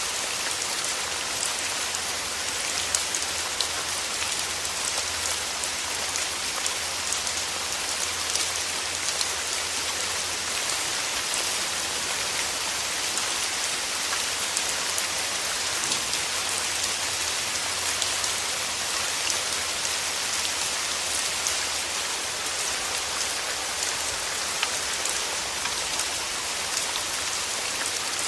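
Steady rain, a dense even hiss of falling drops with many fine individual drop ticks.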